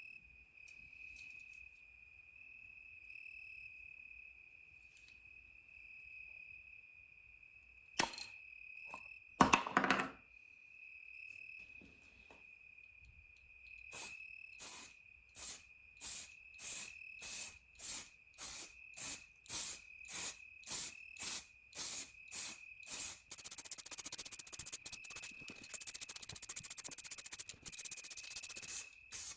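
Aerosol spray can spraying: two knocks, then short hissing bursts about one and a half per second, then one continuous spray over the last several seconds. A steady high-pitched trill runs underneath throughout.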